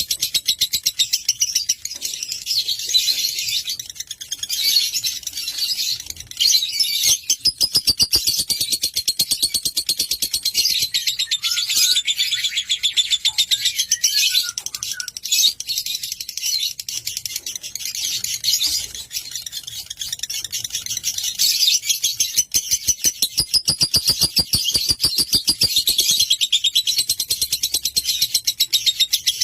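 Lovebird chattering in a long, fast, high-pitched run of rapid chirps, broken only by a few brief pauses.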